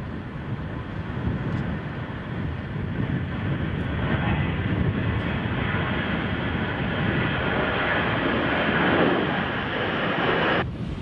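Jet airliner engines passing, the noise growing louder over several seconds, with gusty wind rumbling on the microphone; the sound cuts off abruptly near the end.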